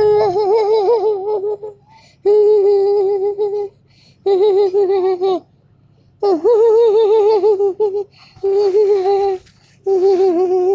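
A child's voice making six drawn-out, wavering hummed tones at much the same pitch, each a second or two long with short pauses between, imitating an emoji's sound.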